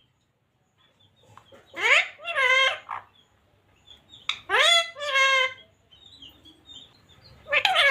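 Pet parrot calling in short two-part, speech-like utterances, three times. Each one rises sharply in pitch and then levels off.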